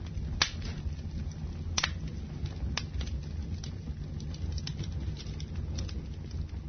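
Wood fire burning in a fireplace, crackling with scattered small ticks and a few sharp pops, the loudest about half a second and just under two seconds in, over a steady low rumble.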